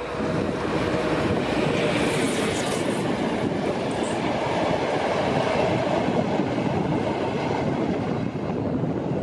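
Passenger coaches of a locomotive-hauled train rolling past at speed, a steady rushing noise of wheels on rails. The sound drops away about eight seconds in as the last coach passes.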